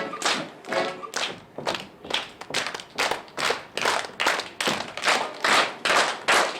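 Hands clapping in an even rhythm, about three claps a second.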